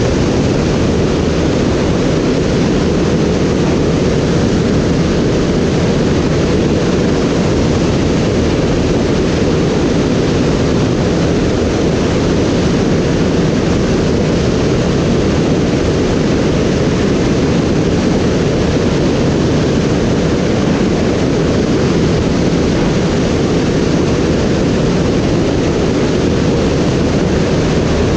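Steady, loud rushing of airflow over the microphone in flight, unchanging, heaviest in the low range.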